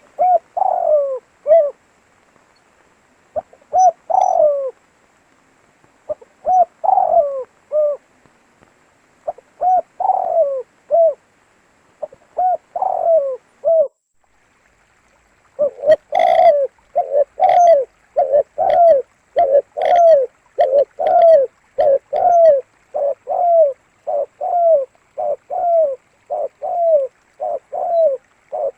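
Spotted dove cooing: phrases of three or four coos every few seconds, then, after a short gap about halfway, a faster unbroken run of coos.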